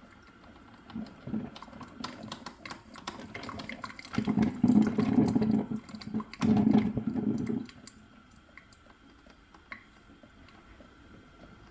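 Drip coffee maker gurgling and sputtering with water, in two louder bursts around the middle, with faint clicks between.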